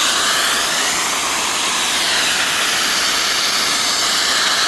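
Steady, loud hissing rush of water pouring out of an opened PVC water main line as the system is drained.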